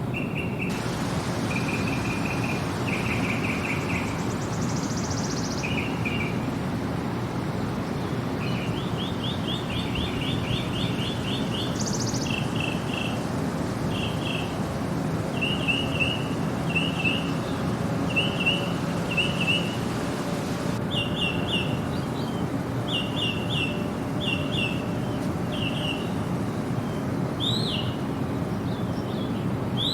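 Songbirds calling in short, repeated phrases of quick chirps about once a second, over a steady low rushing background noise.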